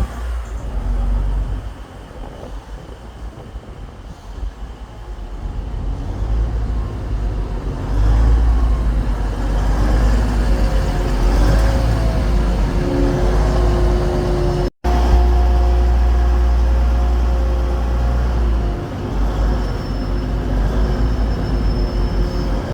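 Diesel train engine running as a train moves through the station, its engine note rising and falling in pitch partway through, with heavy low rumble. The sound cuts out for an instant about two-thirds of the way in, then the train noise resumes.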